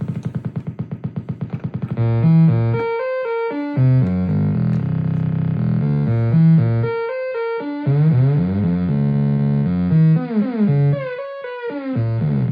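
Behringer Neutron analog synthesizer playing: a fast pulsing tone for about two seconds, then a sequence of stepped notes, with pitches sliding up and down near the end.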